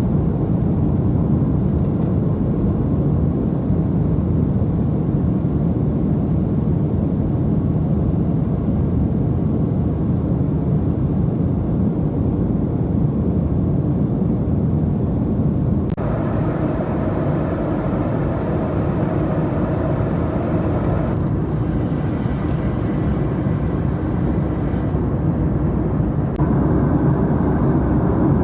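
Steady rushing noise of jet engines and airflow inside the cabin of a Boeing 737-700 airliner. It changes abruptly in character twice, about halfway through and again near the end, when a faint high steady tone joins it.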